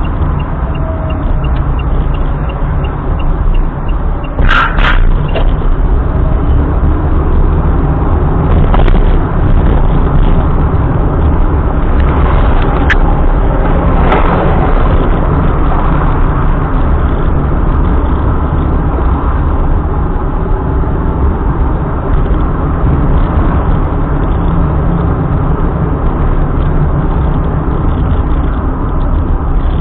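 A car driving, with a steady low rumble of road and engine noise and a few sharp knocks, one about four seconds in and another around thirteen seconds.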